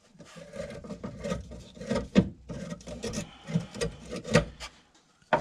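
Flat-head screwdriver loosening the metal clamp that holds a fuel filter, with irregular scraping and sharp clicks of metal on metal.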